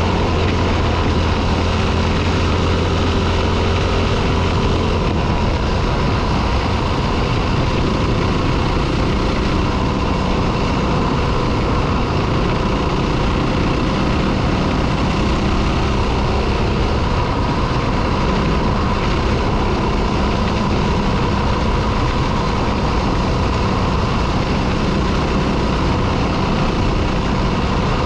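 Four-stroke dirt bike engine running continuously, its note shifting about five seconds in.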